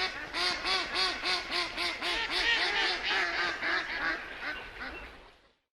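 Mallard duck quacking in a rapid series, about three or four quacks a second, fading near the end and then cutting off.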